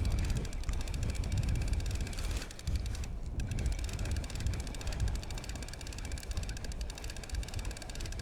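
Wind buffeting the microphone, an uneven low rumble, with a short lull about three seconds in.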